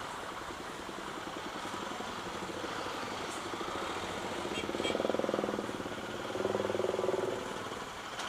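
Bajaj Pulsar NS200's single-cylinder engine running while filtering through slow traffic, with two louder stretches about five and seven seconds in.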